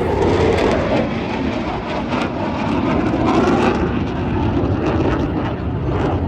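RAF Eurofighter Typhoon's twin EJ200 turbofans, a loud, steady jet roar as the fighter makes a low, fast pass at about 700 mph.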